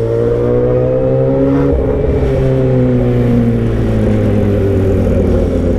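Motorcycle engine running with no muffler, just an open exhaust pipe, while riding. Its pitch climbs for under two seconds, shifts, then falls away steadily as the bike eases off.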